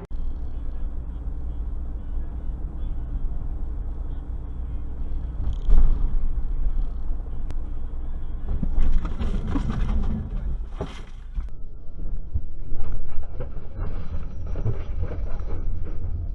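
Low, steady rumble of a moving car's road and engine noise as heard by a dashcam, broken by a sharp knock about six seconds in, a louder burst of noise around nine to ten seconds and another sharp bang about eleven seconds in.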